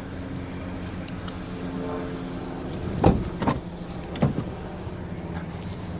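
A Honda Civic sedan's steady running hum with three sharp knocks, the first two about half a second apart and the third about a second later, in the middle of the stretch.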